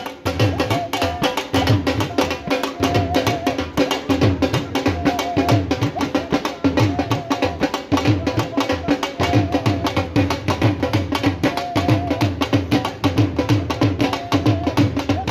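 Barrel drum beaten in a fast, steady rhythm as at a dholki night, with a wavering melody line over the drumming.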